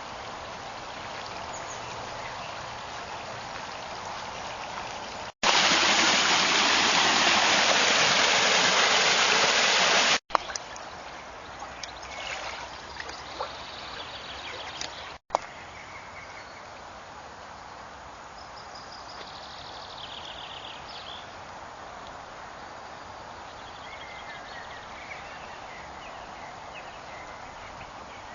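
Floodwater running through a drainage channel swollen after heavy rain: a steady rush of water, with one much louder, close-up stretch of rushing water about five to ten seconds in. Birds chirp faintly over the water near the end.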